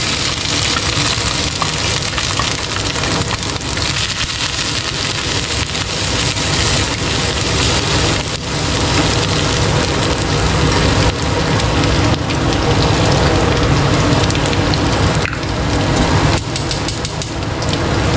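Shallots, garlic, lemongrass, ginger and chili sizzling steadily in hot oil in a pan, just tipped in.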